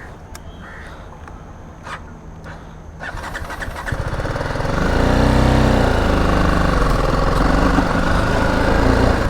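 BMW G310GS's single-cylinder engine idling for about three seconds, then revving up as the motorcycle pulls away and accelerates, its pitch rising and dropping back through a gear change.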